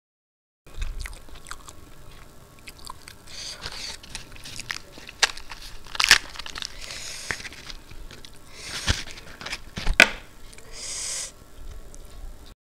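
Close-miked eating sounds: chewing and wet mouth clicks, with short crackling rustles of a crisp deep-fried puri being torn by hand. The sounds start abruptly under a second in and stop just before the end.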